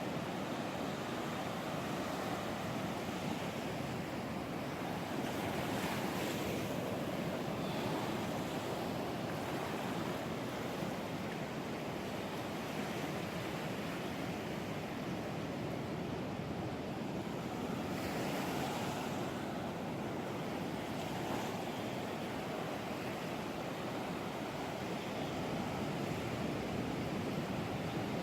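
Ocean surf: waves breaking and washing ashore steadily, with louder surges about six seconds in and again around eighteen seconds.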